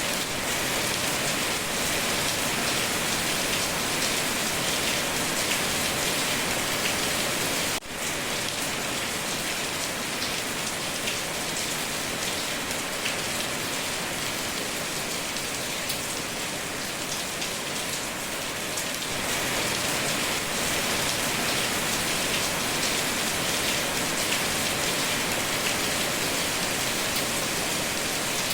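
Steady rain falling, an even, dense hiss of drops on surfaces, with one momentary drop in level about eight seconds in.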